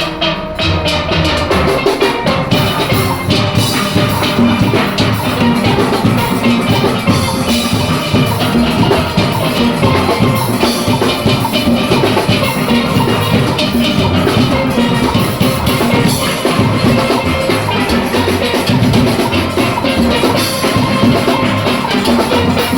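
A steel orchestra playing: steelpans carry the melody over a driving drum-kit and percussion rhythm section.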